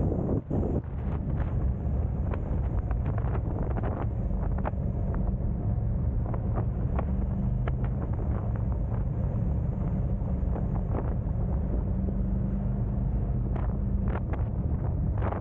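Car on the move: a steady low engine and road rumble, with wind buffeting the microphone.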